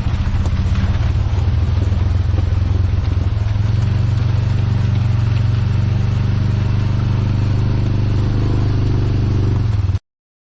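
A motor vehicle's engine running steadily, its pitch shifting slightly a couple of times, then cutting off abruptly near the end.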